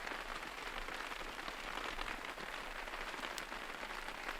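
Steady rain falling, a continuous even hiss with scattered light drop ticks.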